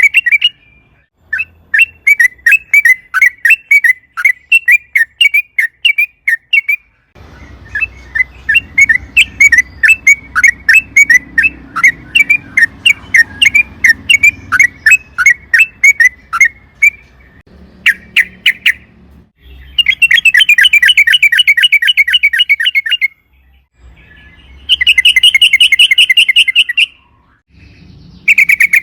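Yellow-vented bulbul (trucukan) singing: long runs of short, sharp, chirpy notes, then two fast, dense trills of a few seconds each, the long "ropel" song of a bird in full voice.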